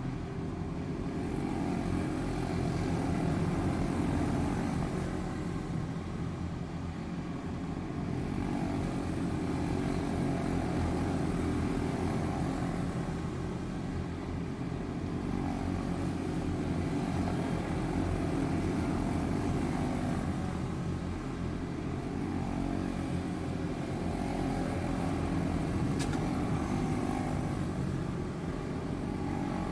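A pack of quarter midget race cars with single-cylinder Briggs & Stratton Animal engines running laps on a small oval. The engine noise swells and fades in waves about every four to five seconds as the cars come around.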